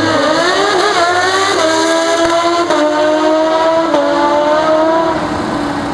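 Drag racing motorcycle engine at full throttle on a pass. Its pitch climbs through each gear and drops back at about three gear changes, then eases off near the end.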